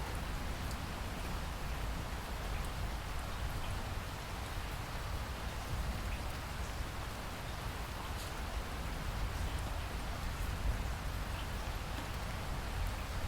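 Steady rain falling as an even hiss, with scattered single drops ticking through it and a low rumble underneath.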